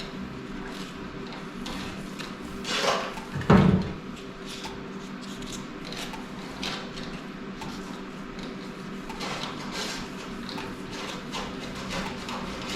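Rubbing, light clicks and knocks of a throttle cable being worked into its guide tube in a 1964 VW Beetle, with one loud thump about three and a half seconds in. A steady low hum runs underneath.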